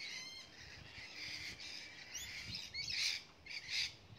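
Small birds chirping and calling, a string of short, quick notes with a few fast rising whistles.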